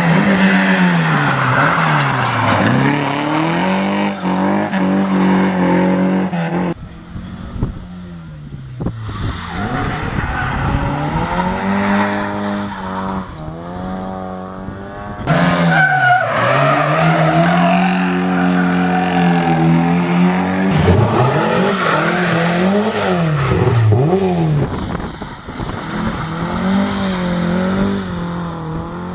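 Rally cars driven hard and sideways, engines revving up and down through the gears with tyre squeal and skidding. Several separate passes, with abrupt jumps in level between them.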